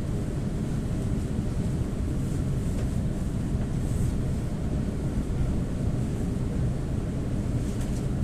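Steady low rumble of an EP2D electric multiple unit running along the track, heard from inside the carriage.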